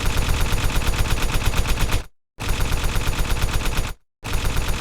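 Rapid machine-gun fire, about ten shots a second, in long bursts broken twice by short, abrupt complete silences.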